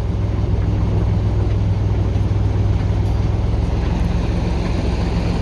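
TU6A narrow-gauge diesel locomotive's YaMZ-236 diesel engine running steadily under way, a constant low drone.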